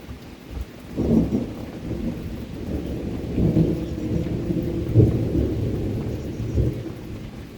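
Rolling thunder over steady rain: a low rumble swells about a second in, rises and falls through several peaks, and dies away near the end.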